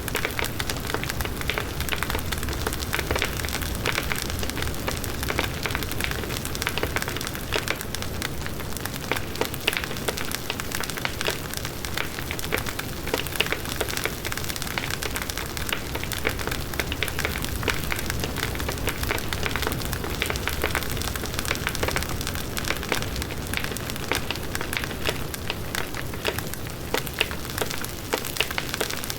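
Large bonfire burning: the wood crackles with many short, sharp pops over the steady rush of the flames.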